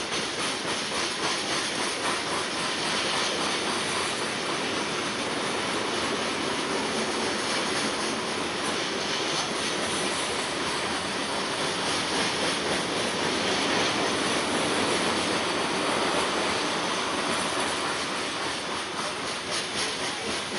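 Steel wheels of a long string of coal hopper cars rolling steadily past on the rails, an even rumbling hiss, with faint regular clicking coming in near the end.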